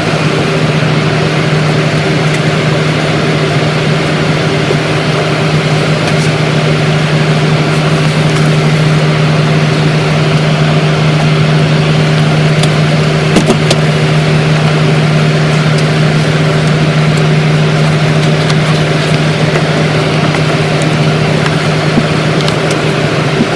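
Steady cabin noise of a Boeing 737-900ER in flight: an even rush of air with a steady low hum.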